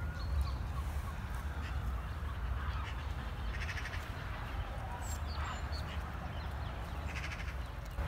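Birds calling: scattered short chirps and whistles, with two harsh, buzzy calls about three and a half and seven seconds in, over a steady low rumble.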